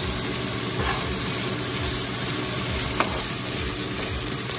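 Chopped spinach and green onions sizzling in olive oil in a hot skillet while being stirred with a spatula, with one short click about three seconds in.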